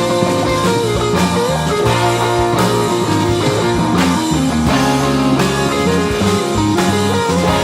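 Instrumental passage of an emo-punk rock song: guitars play a melodic lead line over bass and a drum kit.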